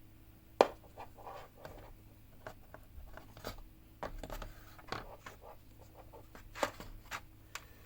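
Unboxed helmet intercom parts and their packaging being handled: a run of small clicks, taps and scratchy rustles, with a sharp click about half a second in and another near the end.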